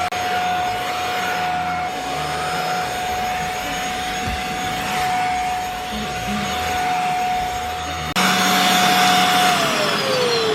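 Corded handheld mattress vacuum running with a steady high whine over its suction noise while it works over a mattress. Near the end it is switched off and the whine falls in pitch as the motor spins down.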